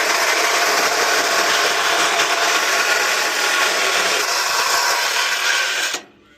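Power saw cutting steadily through the metal of a water heater to free its copper, stopping abruptly near the end.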